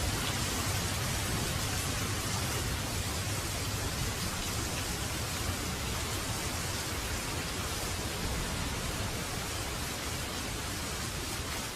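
Heavy rain falling as a steady, even hiss, with a low thunder rumble dying away in the first second or so.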